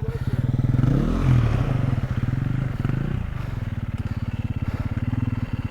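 Dirt bike engine running at idle with two short revs, one about a second in and one around three seconds in.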